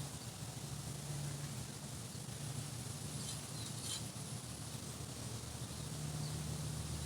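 Quiet outdoor ambience: a steady low hum under a faint hiss, with a few faint high bird chirps about three to four seconds in.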